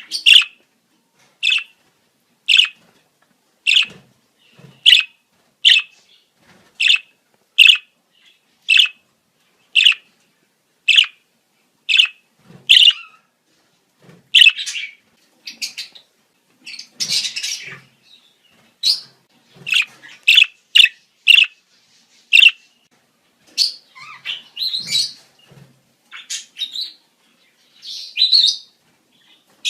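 Budgerigars giving mating-season calls: a run of short, sharp chirps at about one a second, turning about halfway through into busier, more varied chirping and warbling.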